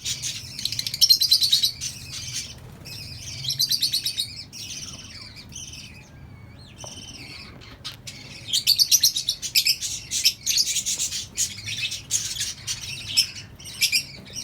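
A colony of lovebirds chattering and chirping in quick, shrill bursts, easing off for a few seconds midway and then picking up again.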